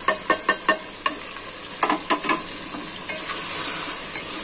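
Chicken masala frying in oil in an aluminium pot, a steady sizzle, while a wooden spoon stirs it. A quick run of sharp knocks of utensils against the pot in the first second, and another short cluster a little before two seconds in.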